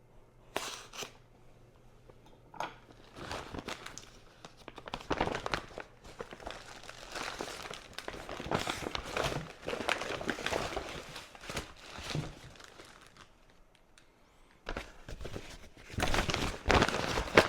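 Meal-kit ingredient packaging crinkling and rustling in irregular bursts as it is handled and unpacked, loudest near the end.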